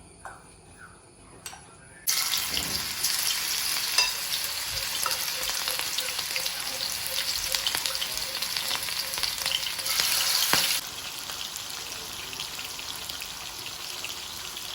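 Marinated chicken pieces deep-frying in hot oil: a loud sizzle starts suddenly about two seconds in, then after about ten seconds settles to a steadier, somewhat softer sizzle.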